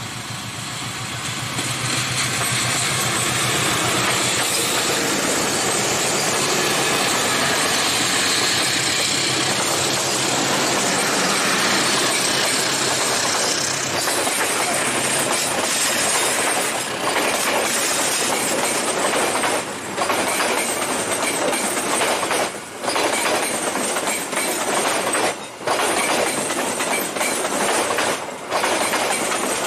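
A diesel-electric locomotive passing close by, its engine running, followed by a long rake of passenger coaches whose wheels rumble and clatter steadily over the rails. The level dips briefly several times in the second half as the coaches go by.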